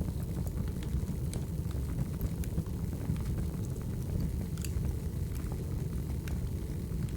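Burning firewood crackling, with a steady low rumble of flames and scattered sharp pops and snaps.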